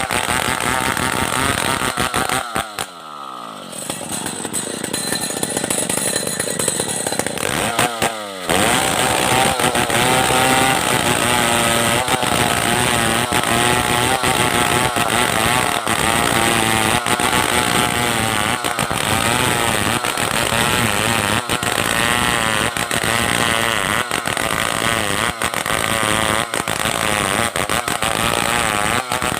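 Stihl 070 two-stroke chainsaw running at full throttle, its pitch falling as it drops to idle about three seconds in, then revving back up suddenly about eight seconds in and running steadily at high revs while ripping a log lengthwise into planks.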